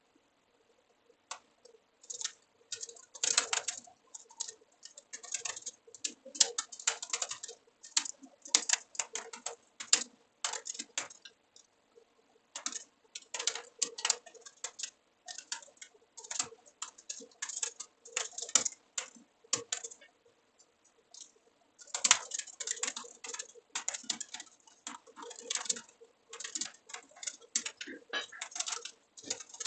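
Typing on a computer keyboard: bursts of rapid keystrokes broken by short pauses, with a longer pause about twenty seconds in.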